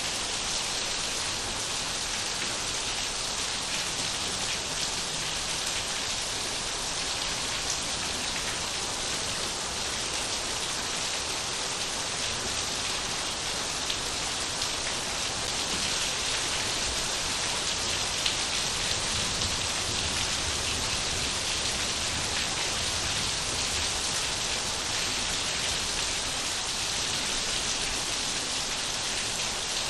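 Steady rain falling, an even hiss of drops pattering on surfaces with no change in strength.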